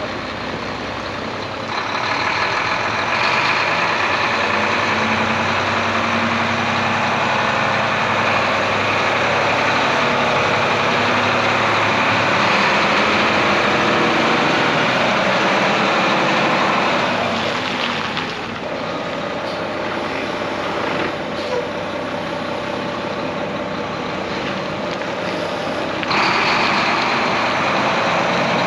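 Diesel engine of a 2012 Volvo VNM day cab tractor running steadily. It gets louder about two seconds in, eases back around seventeen seconds, and gets louder again near the end.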